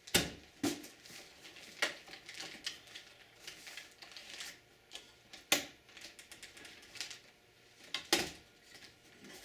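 Scattered sharp clicks and knocks of hands working the cover-release levers and latch of an old desktop computer's case, the loudest about five and a half seconds in.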